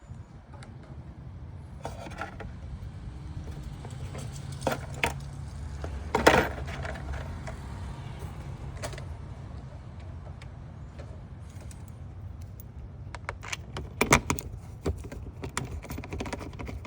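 Plastic engine cover being handled and fitted into place: scattered clicks and knocks, one loud knock about six seconds in and a quick run of clicks near the end, over a steady low rumble.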